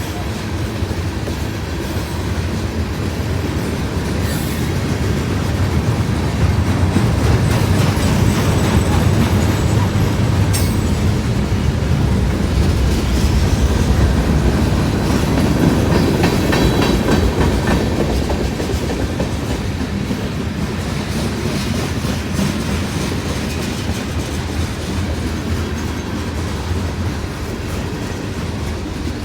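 Norfolk Southern freight train rolling past, a steady heavy rumble that swells through the middle and eases off toward the end, with a few sharp metallic clicks from the wheels.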